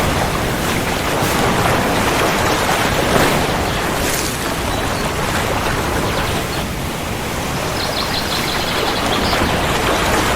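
Steady rain falling, an even, dense hiss with no distinct thunderclap.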